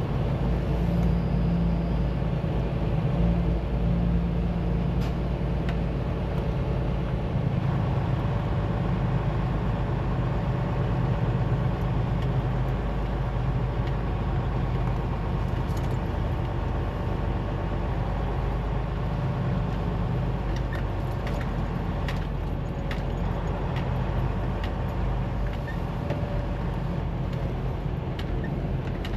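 Semi truck's diesel engine running steadily at low speed, a continuous low hum with a few faint clicks over it.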